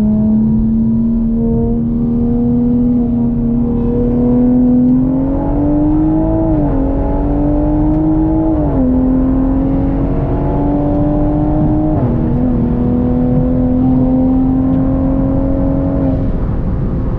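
Turbocharged car engine at full throttle in a high-speed roll race, its pitch climbing slowly and dropping sharply at three upshifts before the throttle eases near the end.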